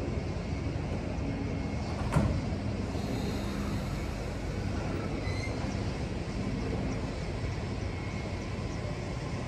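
JR East E231/E233 series electric commuter train starting off from the platform: a steady rumble and hum with one sharp clunk about two seconds in, then the train pulling away slowly.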